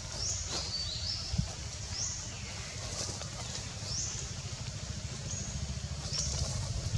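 A bird chirping in short high notes, roughly once a second, over a steady low rumble.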